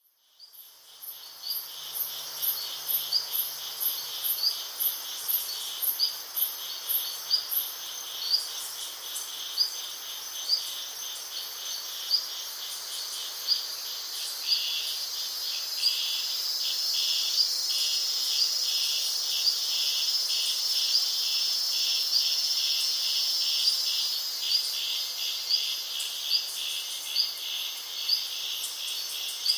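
Insects chirping in a steady, high-pitched chorus, with a regular chirp repeating about every two-thirds of a second. It fades in at the start.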